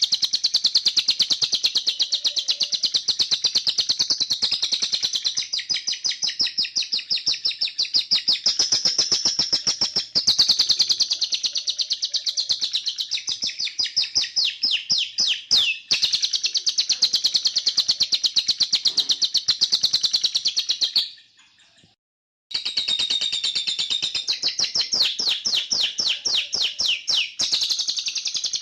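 Cage bird singing a continuous canary-style song of fast rolling trills and chattering phrases. The song breaks off for about a second and a half about three quarters of the way through, then resumes.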